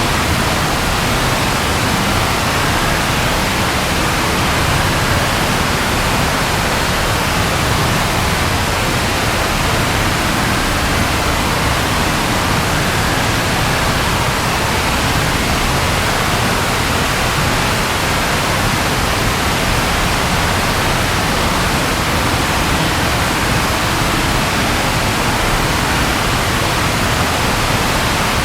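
Rain falling steadily, an even hiss with no thunder or other distinct sounds.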